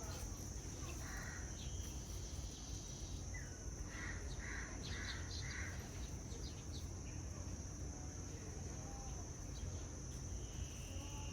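Aviary ambience: a steady high-pitched insect drone, with birds calling over it. Near the middle comes a quick run of four short chirps, and a brief held note sounds near the end.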